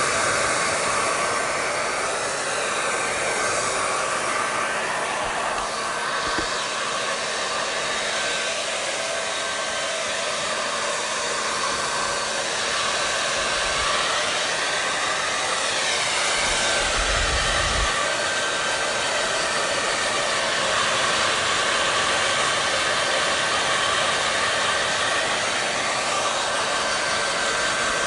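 Hair dryer running steadily: an even rush of blown air over a constant motor hum, with a faint steady whine.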